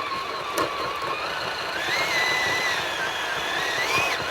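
Radio-controlled scale crawler's electric motor and geartrain whining under throttle as the truck climbs; the whine steps up in pitch about halfway through and wavers with the load.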